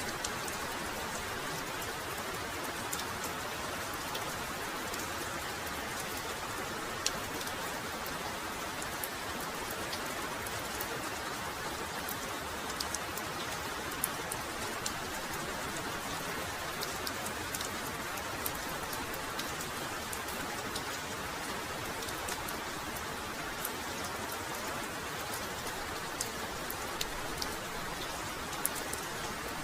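Heavy rain falling steadily, with many sharp ticks of single drops striking close by.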